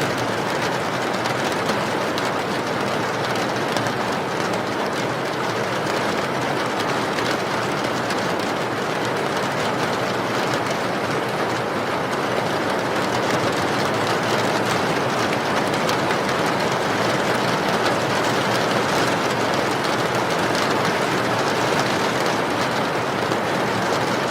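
Steady heavy rain: a continuous even rushing hiss with fine pattering drops, holding the same level throughout.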